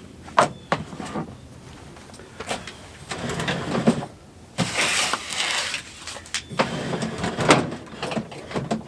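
Gear being handled: irregular knocks and clicks with bursts of rustling and scraping, the longest burst about halfway through.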